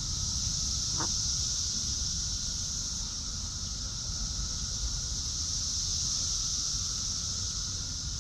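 Steady high-pitched drone of insects, with a low wind rumble on the microphone and one brief falling call about a second in.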